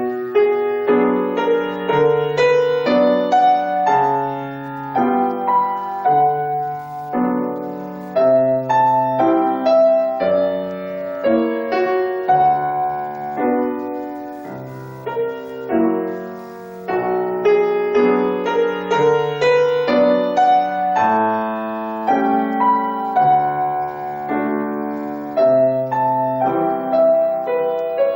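Solo piano playing a lyrical melody over low bass notes and chords, without a break.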